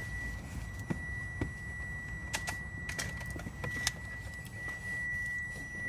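Irregular sharp clicks and light knocks in a car, over a steady high-pitched tone and a low rumble.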